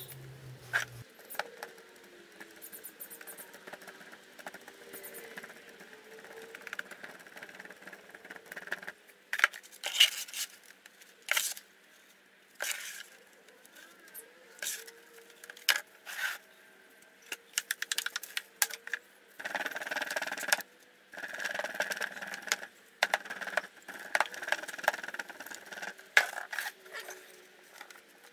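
Hand work with foundry moulding sand for a casting mould: irregular clicks and knocks, with longer stretches of gritty scraping about two-thirds of the way through.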